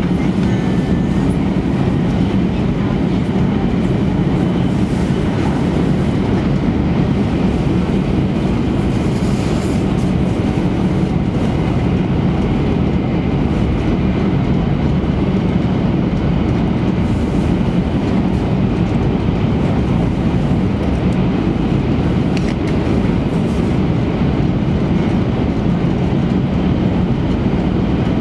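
Steady, low-pitched running noise inside the passenger cabin of an E3-series Shinkansen train travelling at speed.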